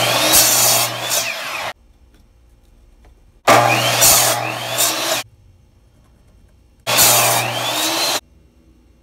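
Electric compound miter saw (chop saw) cutting through pine 2x4 boards in three bursts of a second or two each, every one starting and stopping abruptly, with a steady motor hum beneath the cutting noise.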